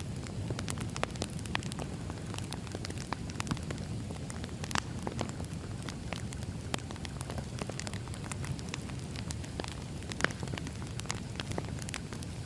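Wood fire burning, a steady low rumble with irregular sharp crackles and pops from the burning logs; one pop about ten seconds in is louder than the rest.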